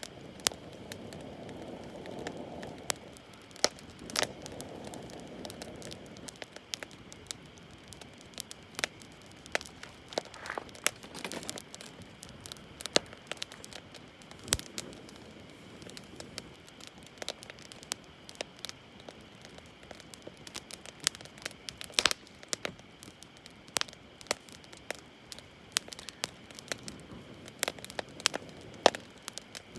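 Wood campfire crackling, with irregular sharp snaps and pops throughout and a soft low rush in the first few seconds.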